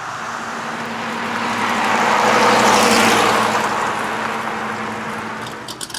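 Dodge Viper's V10 engine rumbling as the car drives past, growing louder to a peak about halfway through and then fading as it pulls away.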